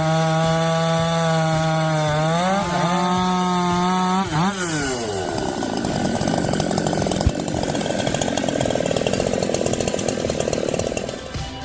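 Husqvarna 371 XP two-stroke chainsaw running at high, steady revs. About four seconds in, the pitch drops and climbs again, and the sound turns into a rough, rapid rasp as the chain cuts through the wood, lasting until near the end.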